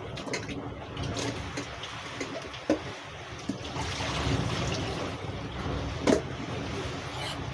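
Water running from a kitchen tap at low pressure, with a couple of sharp knocks about three and six seconds in.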